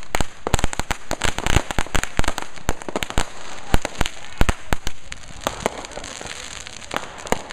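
Fireworks going off in a dense, rapid string of sharp bangs and cracks over a steady crackle, thinning to a few scattered bangs after about five seconds.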